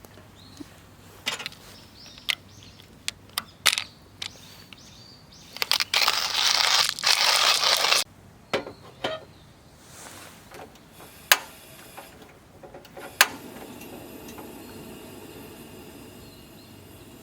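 Things being handled: a series of sharp clicks and knocks, with a loud rustling about six seconds in that lasts two seconds or so, then a low steady hiss.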